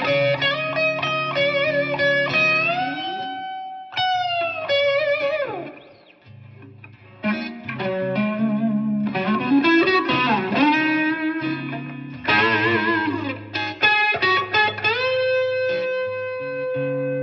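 Donner DST-100 S-type electric guitar played with distortion, sustained lead notes with string bends and vibrato. About four seconds in a note slides steeply down in pitch, and the playing briefly drops quiet around six seconds in before picking up again.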